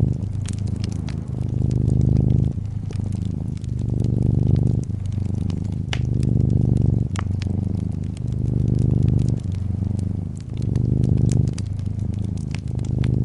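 Domestic cat purring, the purr swelling and easing with each breath about every two seconds. Fireplace crackles pop sharply and irregularly over it.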